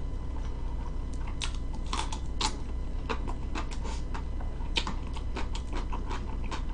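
Close-miked chewing: irregular crisp crunches and clicks from a mouthful of food, including crunchy pickled radish (danmuji) being bitten and chewed.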